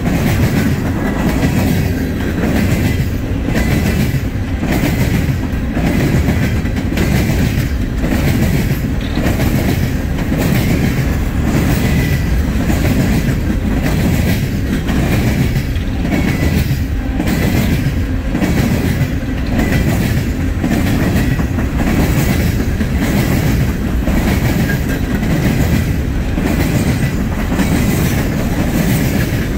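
Open-top coal hopper cars of a freight train rolling past close by: a steady rumble of steel wheels on rail, with a regular clickety-clack about once or twice a second as each car's wheel sets cross joints in the rail.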